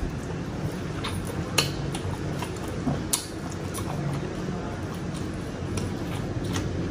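Close-miked chewing of grilled chicken and rice, with wet lip smacks and sharp mouth clicks scattered irregularly through it.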